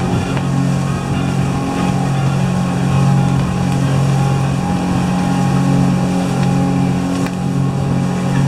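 Engine of a 37-foot motorboat running at high speed, about 37 mph: a steady low drone over a constant rush of noise.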